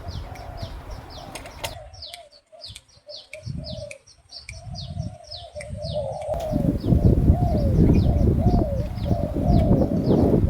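Spotted doves cooing over and over in short, bending notes, with a small bird's rapid high chirps repeating alongside. A low rumble grows louder about six seconds in.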